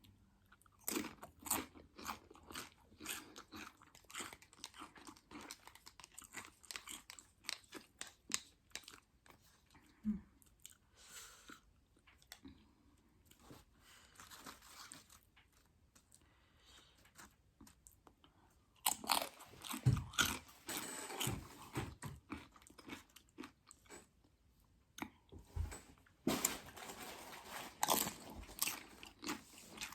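Close-miked crunching and chewing of loaded nachos made with Doritos tortilla chips: many sharp crunches in busy runs, with quieter chewing between them.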